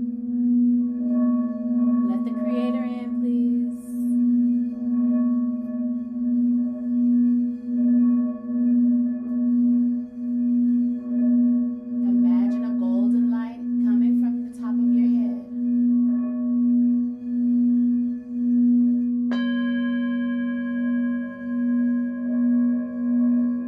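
A singing bowl sung to a steady low hum that swells and fades about one and a half times a second. About 19 seconds in, another bowl is struck and rings with a brighter, higher set of tones over the hum.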